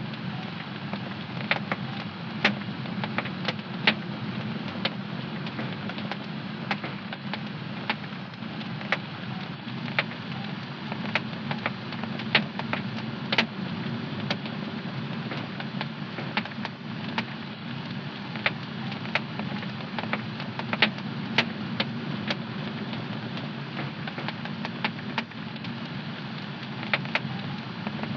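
Wood fire burning in a home fireplace: a steady low rumble of flames with irregular sharp crackles and pops several times a second.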